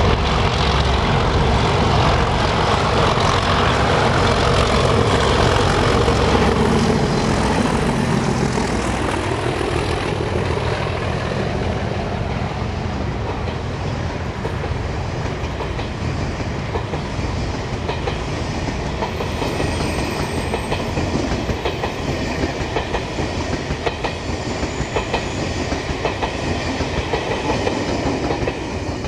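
Diesel locomotive engine passing with a falling pitch for the first several seconds, then a long passenger train rolling past close by, its wheels clicking over the rail joints. The sound cuts off suddenly near the end.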